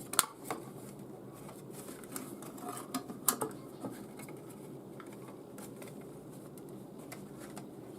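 A few sharp taps and clicks of a bent metal license plate being pressed down over the top of a birdhouse, over a steady low hum.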